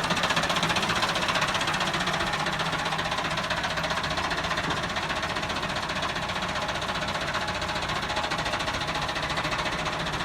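Massey Ferguson 375 tractor's diesel engine running steadily through a modified exhaust, with a fast even beat.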